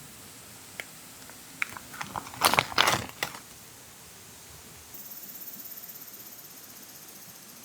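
A few light clicks, then about a second of loud crinkling and rustling, the sound of something crisp being handled. From about five seconds in comes a faint, high, rapidly pulsing hiss that slowly fades.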